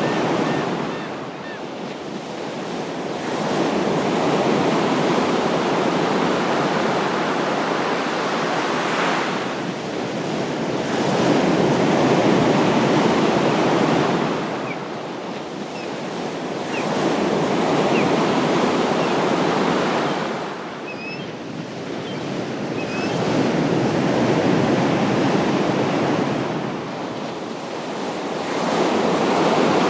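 Ocean waves surging and washing on a shore, each one swelling and falling back about every six seconds.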